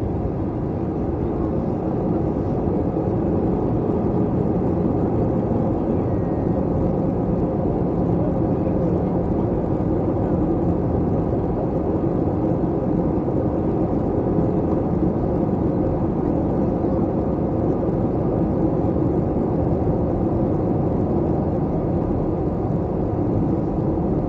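Steady engine and airflow noise of an Airbus A321, heard inside the passenger cabin, swelling slightly in the first few seconds and then holding even.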